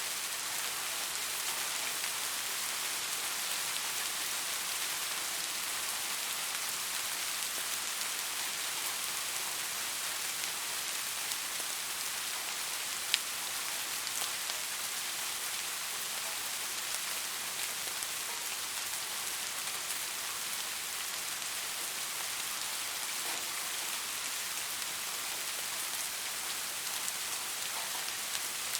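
Steady rain falling on a surface, an even hiss weighted toward the higher pitches, with one sharp tick about halfway through.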